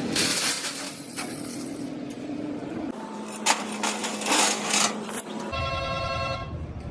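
Scattered sharp metal knocks and clinks, with a cluster of them about three and a half to four and a half seconds in. Then, after an abrupt change in the sound, comes a pitched ringing tone lasting about a second over a low rumble.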